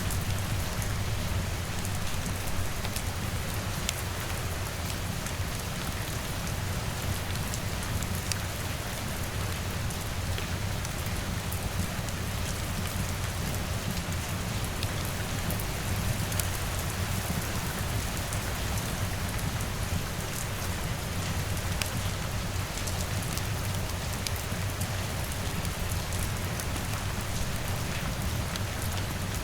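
Steady rain pattering on a window, with scattered faint crackles from a wood fire.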